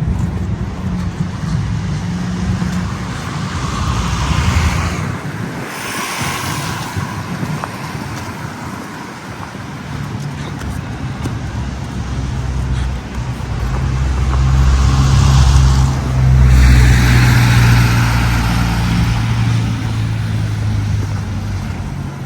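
City street traffic with motor vehicles passing close by: a low engine hum throughout, which grows louder in the second half, and two passes that swell and fade, the louder one in the second half.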